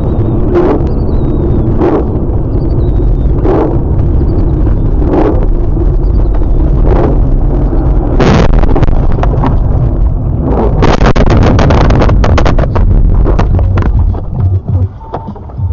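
Vehicle noise: a loud, steady low rumble with a sharp knock about every one and a half seconds, then a dense run of crackling, clattering knocks for a couple of seconds near the end.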